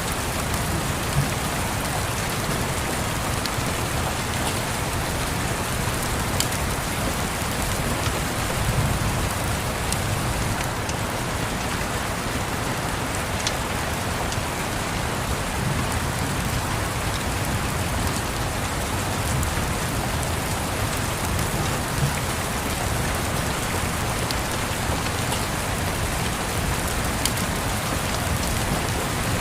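Steady rain, with a scattering of sharp crackles from a wood fire. A low rumble swells and fades underneath, like distant thunder.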